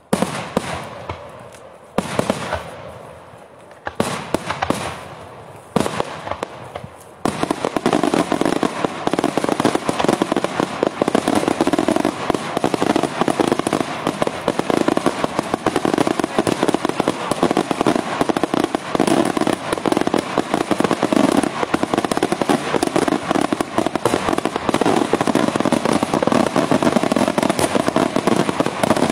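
Daytime aerial fireworks: single shell bursts go off about every two seconds, each bang dying away. About seven seconds in they give way to a dense, continuous barrage of rapid bangs and crackling that carries on to the end.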